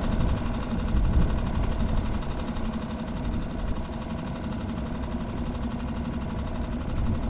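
A boat motor running steadily, with wind rumbling on the microphone.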